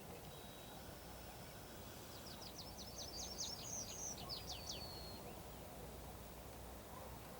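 A songbird sings one song of about three seconds: a fast run of high, sharp notes that speeds up and ends in a short trill. A steady low rumble of background noise runs beneath it.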